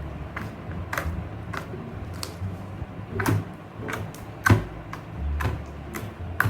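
Slime being squeezed and stretched by hand, giving about a dozen sharp, irregular clicks and pops over a low handling rumble.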